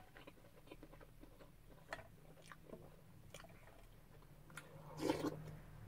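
A person chewing food in the mouth, quiet, with faint scattered clicks, and one short louder mouth or breath noise about five seconds in.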